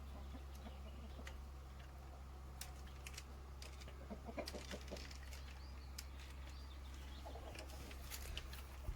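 Chickens clucking faintly in short calls, mostly about halfway through and again near the end, with scattered sharp clicks over a low steady hum.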